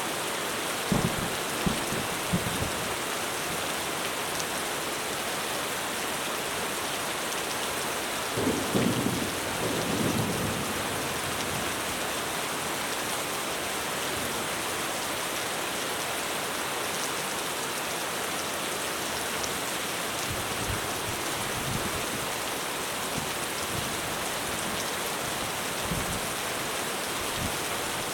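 Heavy rain falling steadily on a roof, with a few thunder cracks about a second in and a louder rumble of thunder about a third of the way through, then fainter distant thuds of thunder.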